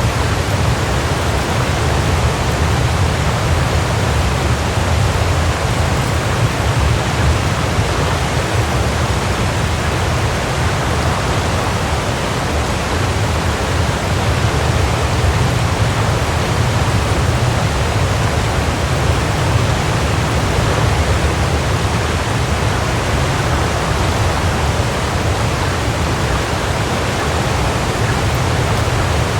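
Waterfall: a steady, unbroken rush of falling water, heaviest in a low rumble.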